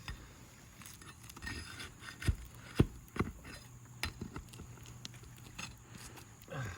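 A metal hand tool scraping and clicking against asphalt roof shingles while a shingle is worked loose, with three sharp knocks about two to three seconds in.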